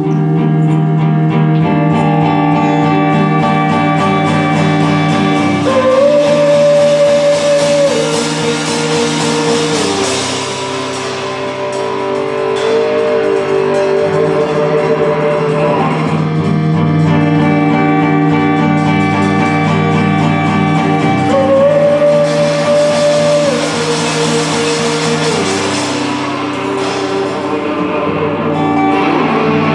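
Live band music: an instrumental passage led by guitar, with sustained chords that shift every few seconds over a steady pulse.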